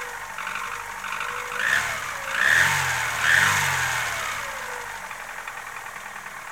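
Chevrolet Aveo 1.5 petrol engine running cold with a knock and a whistle, the fault under investigation. It is revved briefly three times, about a second apart, then settles back to idle.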